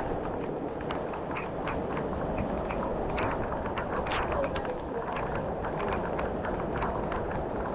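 Heavy rain falling, a steady hiss with many irregular sharp taps of drops and splashes.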